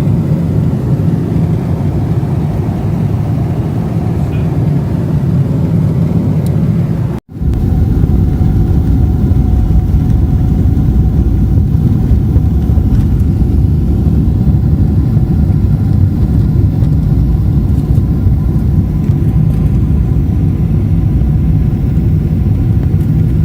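Steady loud rumble of engine and airflow noise inside a passenger airliner's cabin. About seven seconds in it cuts out for an instant and comes back, after which a few faint steady hums sit above the rumble.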